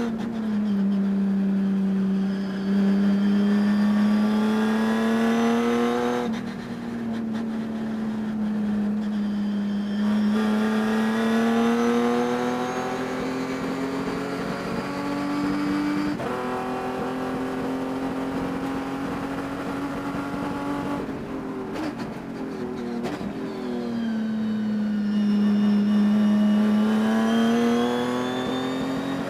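Race car engine running hard at racing speed, its pitch climbing slowly and falling back several times as the driver lifts or shifts, with a deeper dip and climb near the end. The owner hears a high-rpm misfire in this engine throughout the race.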